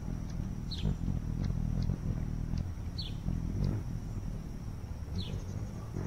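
Short falling bird-like chirps, about one every two seconds, over a continuous low rumble, with a faint steady high whine.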